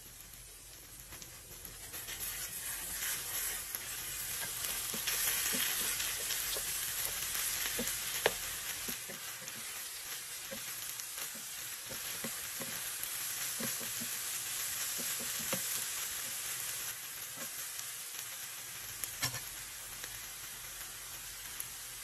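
Eggs and sliced bitter melon sizzling in a frying pan, the sizzle swelling about two seconds in, while a spatula stirs through them with scattered taps and scrapes against the pan.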